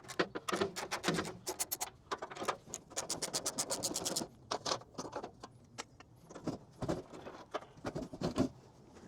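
Quick runs of sharp metallic clicks and rattles from work on car body parts. The clicking is dense for about four seconds, then turns sparser and more irregular.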